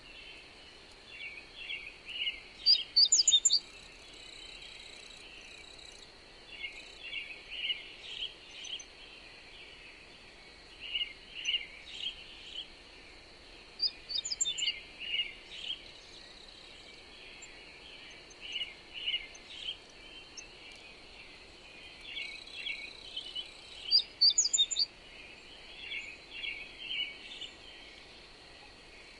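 Songbirds singing in short chirping phrases throughout, with a louder, higher phrase about every ten seconds, over a steady high-pitched hiss.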